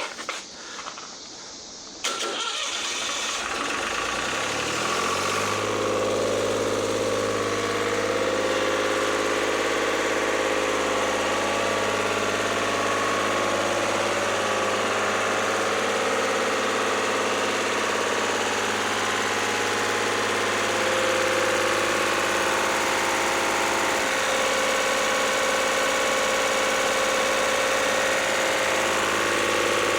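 Lister ST3 three-cylinder air-cooled diesel engine starting about two seconds in, rising in pitch over about three seconds as it runs up to speed, then running steadily.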